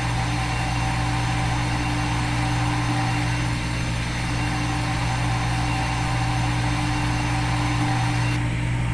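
Steady machine hum holding several constant tones, unchanging throughout.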